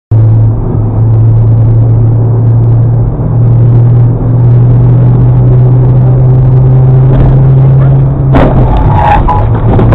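Loud, steady low drone of a vehicle engine, with a short burst of clattering noise about eight and a half seconds in.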